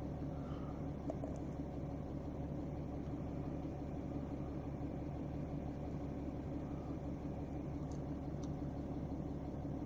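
Mercedes-Benz E-Class W211 engine idling, heard from inside the cabin as a steady low hum, with a few faint clicks.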